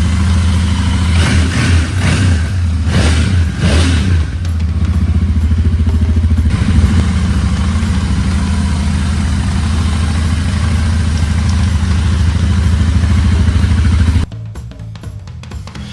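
Royal Enfield Interceptor 650's air-cooled parallel-twin engine running, revved up and down a few times in the first few seconds, then held at a steady idle. It cuts off sharply about fourteen seconds in.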